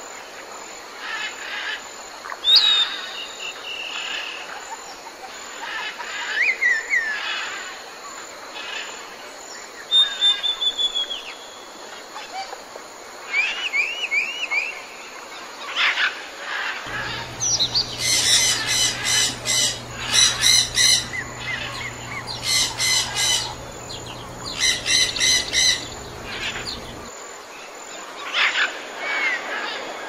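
Several wild birds calling and singing: short chirps, whistled notes and gliding calls. In the second half, four rapid buzzing trills about two seconds apart sound over a low steady hum.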